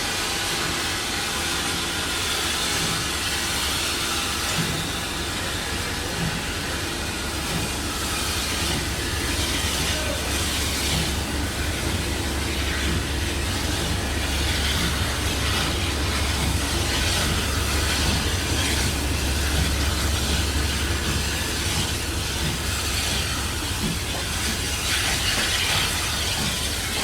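Steam-hauled train on the move behind a Caledonian Railway 0-4-4T tank engine: a steady low rumble of wheels on the track with light clicks, heard from the train.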